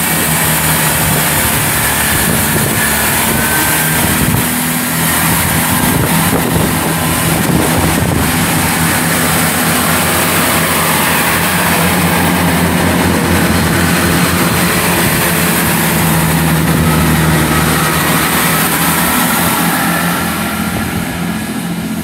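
Class 165 and Class 166 Turbo diesel multiple units standing close by with their diesel engines running loudly and steadily, easing slightly near the end.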